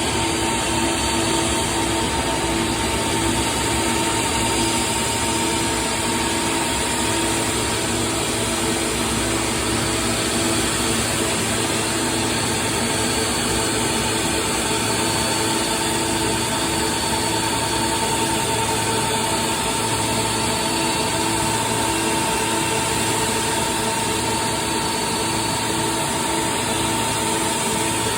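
An engine running steadily at idle, a constant hum with a faint whine over a steady hiss.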